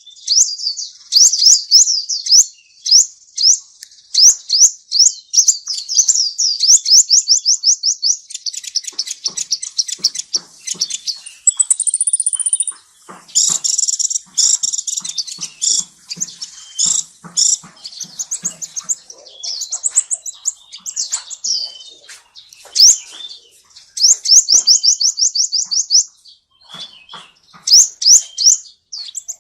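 Small songbirds chirping in quick runs of short, high, downward-sweeping notes, several voices overlapping, with a thin higher trill about twelve seconds in and scattered sharp taps.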